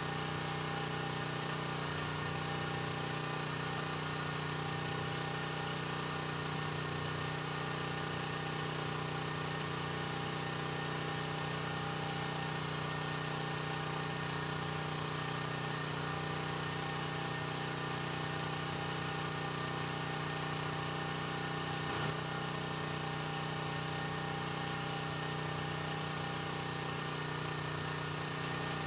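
An engine running steadily on a boat at a constant speed: an even hum that does not change in pitch, with a faint short squeak about 22 seconds in.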